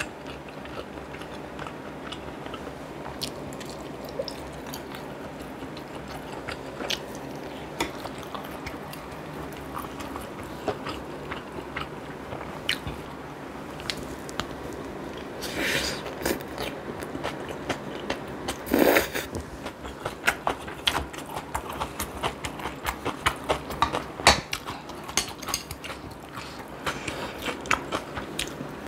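Close-miked chewing and biting of a person eating, with many small wet mouth clicks throughout. Two louder brief noisy sounds come a little past halfway, the second one the loudest in the stretch.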